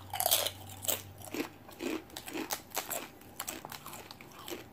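Close-up chewing and crunching of food from a fried tortilla tostada bowl, in irregular crisp crunches several times a second, loudest just after the start.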